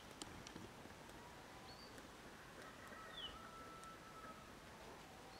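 Faint outdoor ambience, near silence, with a few short, distant bird chirps.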